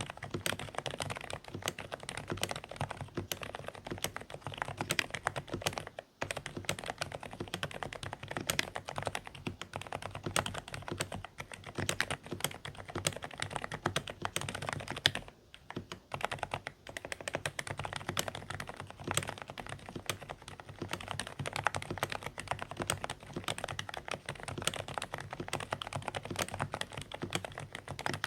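Continuous fast typing on a Dareu A104 Pro mechanical keyboard with silent (low-noise) beige switches, giving a muffled clacking, with two brief pauses.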